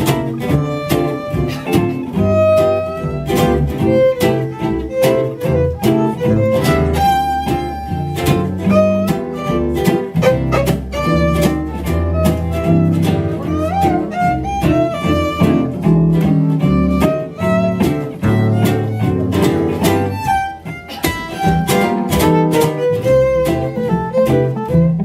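Western swing band playing an instrumental passage: fiddles carry the melody in harmony over a steady strummed rhythm guitar and bass.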